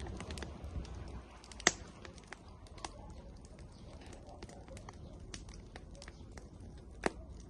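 Firewood burning in an outdoor grill, crackling with irregular small pops and two sharper, louder pops, one about two seconds in and one near the end.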